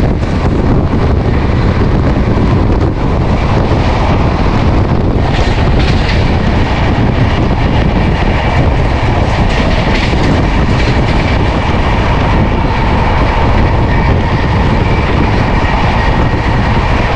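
Loud, steady rush of wind and rail noise at an open window of a fast-moving Indian passenger train as other passenger trains pass close by on the adjacent track, with faint wheel clicks over rail joints.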